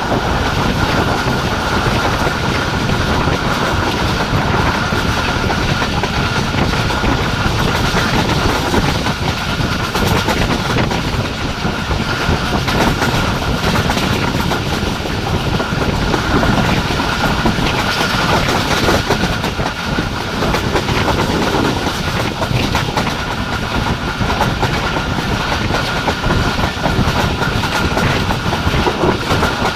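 Passenger train running at speed: a continuous loud rumble of wheels on track, with the clickety-clack of wheels over rail joints and a steady high whine.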